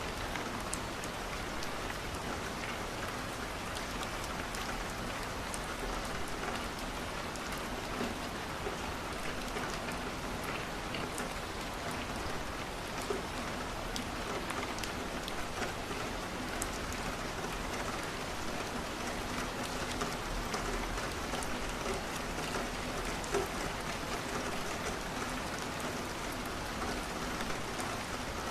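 Steady rain falling, an even rushing hiss, with many small, sharp ticks scattered through it, some of which are the crackle of a wood fire.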